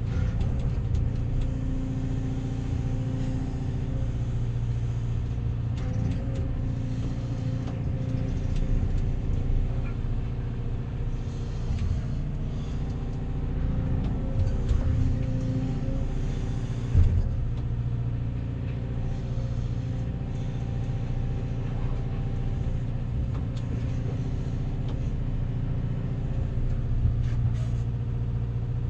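Backhoe's diesel engine running steadily, with scattered clunks and one sharp knock a little over halfway through.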